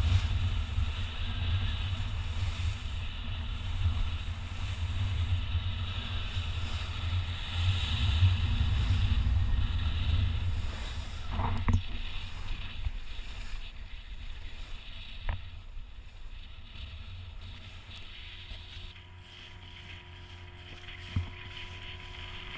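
Wind rushing over the microphone aboard a sailing yacht underway, with water noise, strong at first and dying down after about ten seconds. A few sharp clicks follow.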